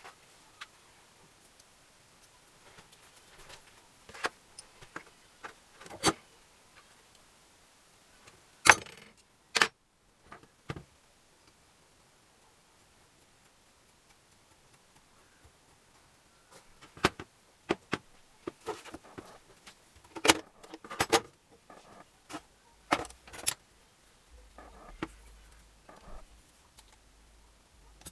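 Metal tools and engine parts clinking and clicking as they are handled during motorcycle engine assembly: single sharp knocks and short clusters, with a quiet pause in the middle.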